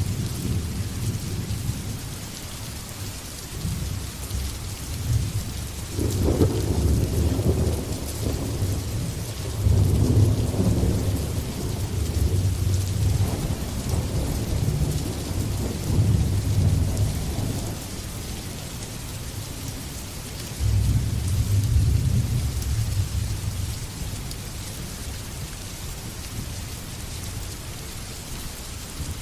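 Steady rain falling, with rolling thunder. A long low rumble builds about six seconds in and rolls on for more than ten seconds, and a shorter rumble follows about two-thirds of the way through.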